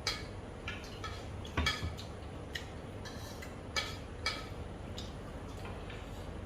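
Light, irregular clinks and clicks against a bowl while eating, about half a dozen over a few seconds, each with a brief ring.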